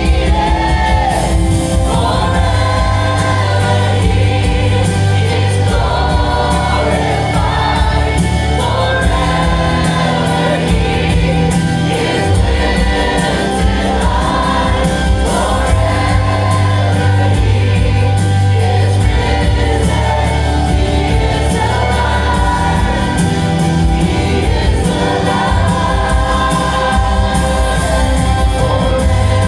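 Gospel praise music: a choir and congregation singing over a band with a strong, steady bass.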